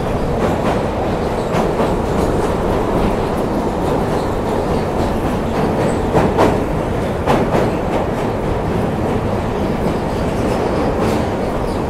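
Sri Lanka Railways passenger train running at speed over a steel girder bridge, heard from an open carriage window: a steady rumble of wheels on the rails, with a few sharper clacks about halfway through and near the end.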